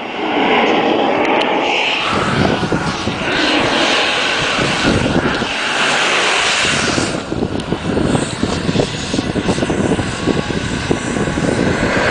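Model aircraft jet turbine engine running at high power: a loud, rushing noise that grows rougher about two seconds in, with a ragged, crackling rumble underneath.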